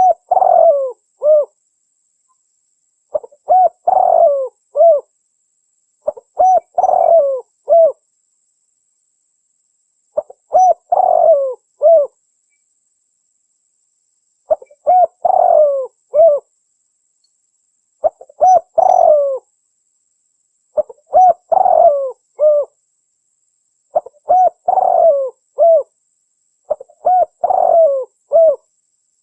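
Spotted dove (tekukur) cooing in a recorded lure call: a phrase of three or four coo notes, repeated about every three to four seconds with silent gaps between.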